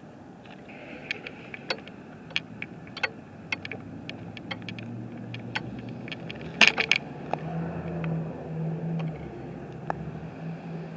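Scattered sharp ticks and clicks, with a louder cluster of clatters about two-thirds of the way through, over a steady low hum that strengthens near the end.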